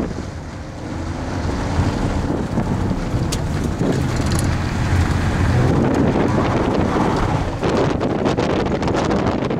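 1988 Toyota Supra's straight-six engine, heard from inside the cabin, revving up and down as the car accelerates and slows through an autocross course. Its pitch rises and falls over a steady rushing noise.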